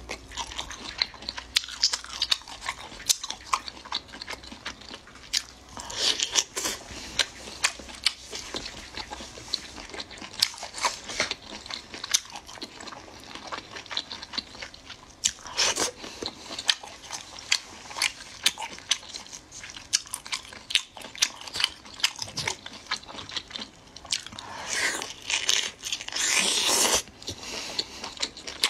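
Close-miked biting and chewing of cooked octopus, with many quick wet mouth clicks and smacks and a few longer wet, noisy stretches.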